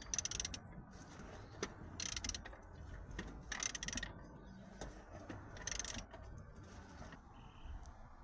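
Socket ratchet being worked in four short bursts of clicking, loosening fasteners while stripping the guards and covers off the engine.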